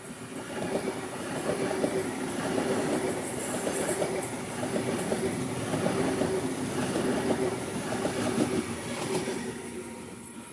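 A train passing through a station, its wheels running on the rails; the sound swells about half a second in and fades away from about nine seconds.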